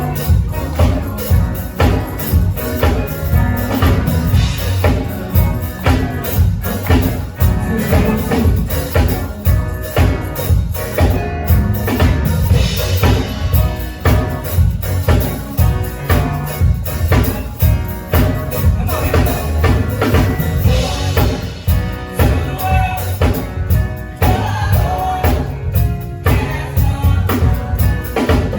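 Live gospel band playing an upbeat number with a steady driving beat and heavy bass, hand percussion shaking along and voices singing over it.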